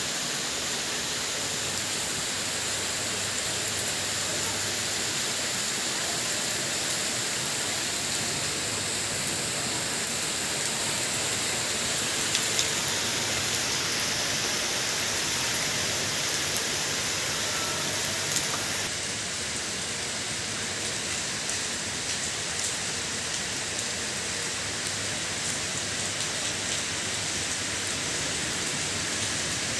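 Steady rainfall: an even hiss of rain with scattered sharper drop taps.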